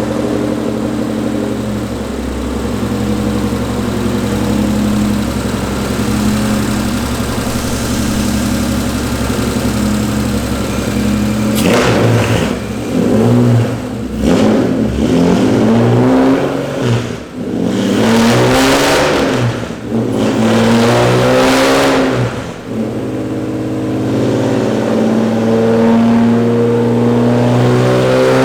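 J35A4 V6 swapped into a race car (its original F20 removed) running on a chassis dyno: it holds a steady speed for about ten seconds, is revved up and let fall about five times in quick succession, then settles back to a steady run near the end.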